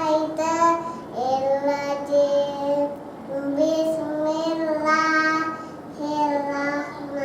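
A child chanting Quranic recitation in long, drawn-out melodic phrases, with short breaths between them.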